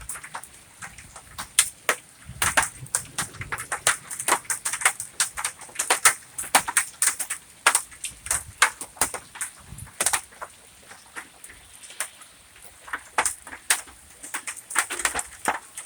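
Ping-pong-ball-size hailstones striking hard surfaces in a severe thunderstorm: sharp, irregular cracks and clacks, several a second, some much louder than others, over a faint hiss.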